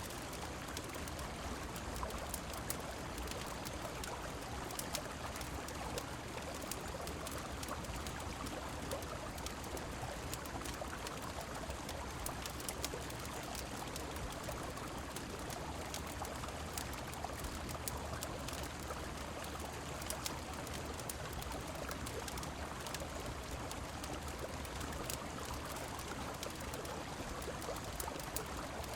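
River water flowing in a steady rush, with fine scattered ticks sprinkled through it, in a layered rain, river and fireplace ambience.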